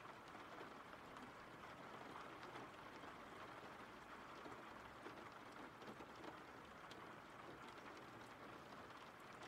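Faint, steady rain ambience, an even patter with scattered drop ticks.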